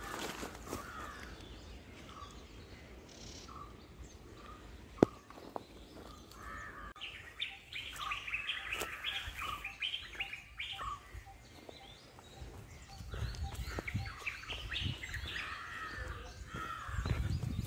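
Small birds chirping in busy runs of quick, short notes, with a single sharp click about five seconds in and a low rumble near the end.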